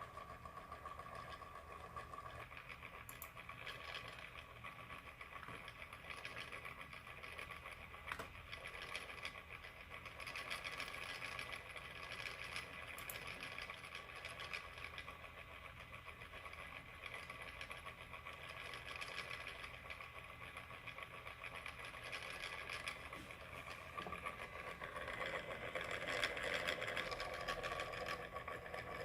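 MSI PE60 6QE gaming laptop's cooling fan running with a steady buzzing whine: the annoying loud fan noise that is the laptop's fault. It gets louder near the end.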